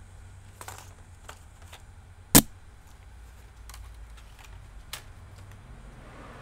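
Laptop parts being handled during reassembly: a few light plastic clicks, and one sharp snap or knock about two and a half seconds in.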